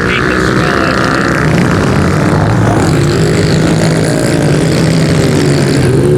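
A pack of pit bikes racing, their small single-cylinder engines running and revving together, with pitch rising and falling as they ride.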